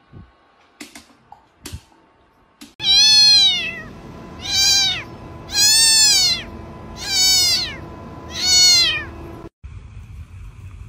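A cat meowing loudly five times, each meow rising and then falling in pitch, about a second and a half apart, after a few light clicks.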